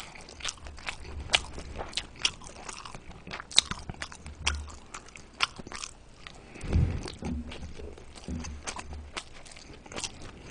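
Mouth noises of a person chewing and eating soft steamed dumplings: wet smacking clicks several times a second, with a low thump about two-thirds of the way through.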